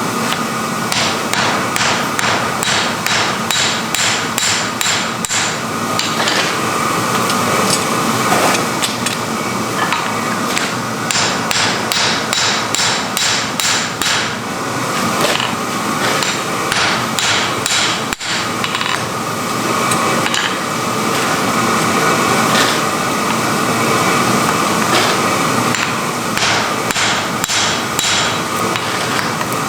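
Hammer blows on hot iron, struck in runs of steady strokes about two to three a second with short pauses between runs, over a steady rushing noise.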